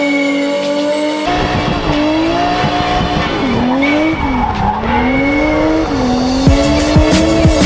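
Drift car engine held at high revs, its pitch swooping up and down, with tyres squealing and skidding. The sound jumps at hard cuts about a second in and again near the end.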